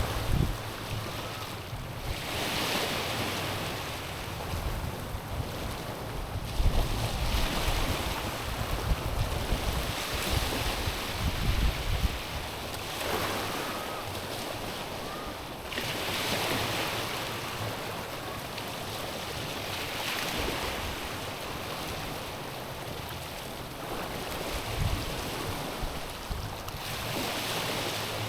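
Small sea waves lapping and washing over a stony shore, each wash swelling and fading every three or four seconds. Wind buffets the microphone with low rumbles during the first half.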